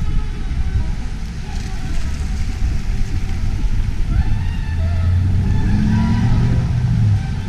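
City road traffic over heavy low wind rumble on the microphone. A vehicle's engine hum rises from about four seconds in and cuts off just before the end.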